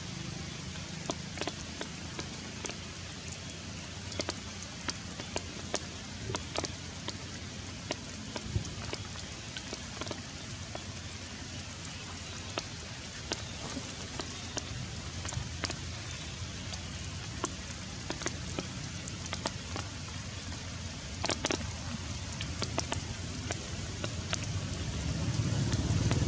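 Heavy rain falling steadily: an even hiss with frequent sharp ticks and splats of drops striking nearby surfaces. A low engine rumble builds near the end.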